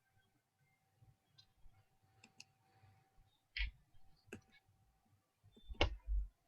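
Faint scattered clicks and taps, a few louder ones about halfway through and near the end, over a faint steady tone.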